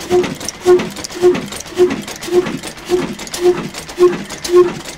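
Old single-cylinder black stationary diesel engine running slowly, its exhaust beating at an even rhythm of nearly two beats a second.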